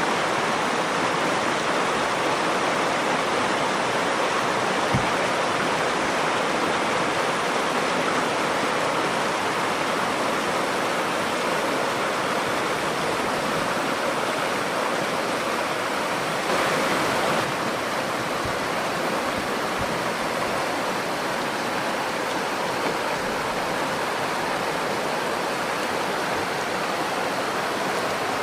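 Nakdong River flowing, a steady even rush of water, with a brief slightly louder swell a little past halfway.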